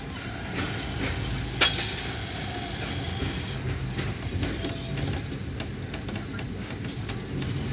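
Passenger train running along the rails, heard from inside a coach: a steady low rumble with frequent small clicks from the wheels and track. One sharp knock about one and a half seconds in is the loudest sound.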